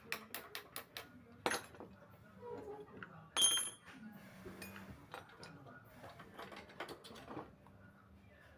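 Small metal objects clicking and clinking as they are handled, with a quick run of clicks at the start and one louder clatter with a short metallic ring about three and a half seconds in.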